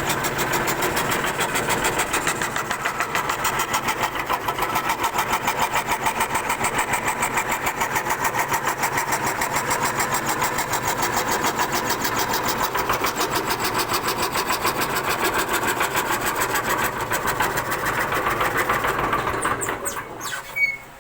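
CNC wood carving router running, its spindle bit cutting wood with a steady, rapid pulsing. The sound drops away sharply near the end.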